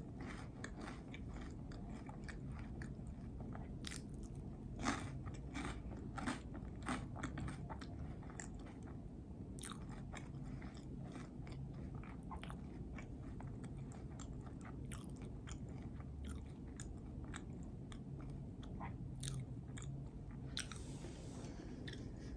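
Close-miked chewing of a peanut butter and jelly sandwich, with many irregular short mouth clicks. There is a brief hiss near the end.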